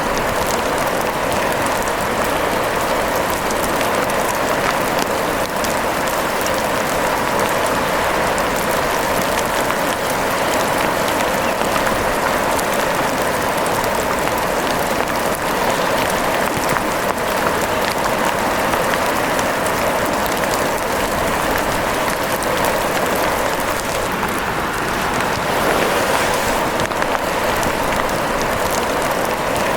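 Steady rain falling, an even hiss of many small drops that keeps on without let-up.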